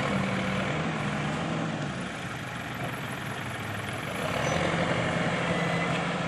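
A heavy engine running steadily, its low note shifting in pitch and then holding steady about four seconds in, over a constant hiss of street noise.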